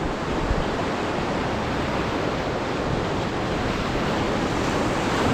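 Steady rush of river water around a rafting boat, with wind noise on the microphone.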